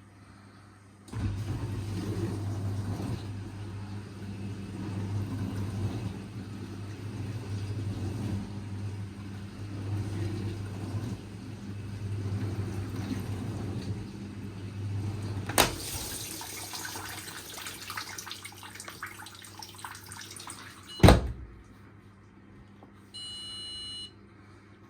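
Bauknecht dishwasher's circulation pump starting and running with a steady motor hum and water churning inside. A click about 15 s in is followed by a hissier water sound, a sharp clunk about 21 s in ends it, and a short electronic beep sounds near the end.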